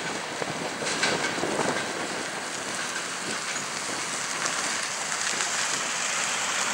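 Passenger train carriages rolling away along the track: a steady hiss of wheels on rails, with a few faint clicks about a second in.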